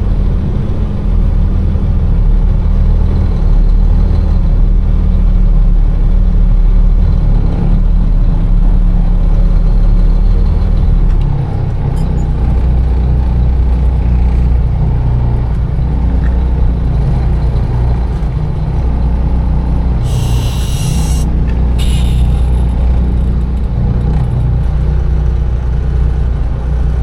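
Container truck's diesel engine running steadily with a low rumble, its note shifting lower about eleven seconds in. About twenty seconds in come two short hisses of air from the air brakes.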